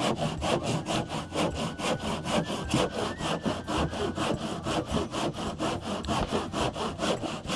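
Hand saw cutting through wood with quick, even back-and-forth strokes, about four or five a second.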